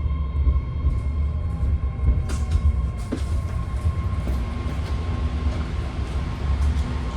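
BART train heard from inside the car while arriving at a station: a low rumble with a steady high-pitched whine and a few clicks.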